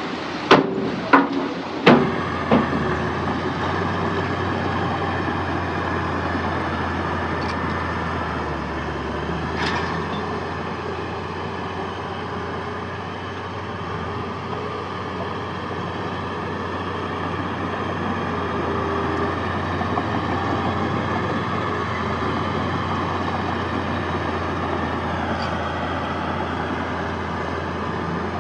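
Heavy diesel earthmoving machinery running steadily, with four sharp bangs in the first three seconds.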